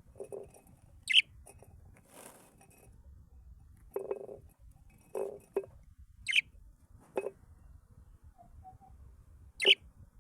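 Exotic cage birds giving short, sharp, high calls: three loud ones, about a second in, past the middle and near the end. Softer, lower short sounds come in between.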